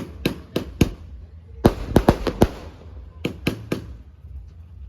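Fireworks cake (150-shot Make a Fortune by Diamond Fireworks) firing its shots: sharp bangs in quick clusters of three or four, with a pause of about a second between clusters.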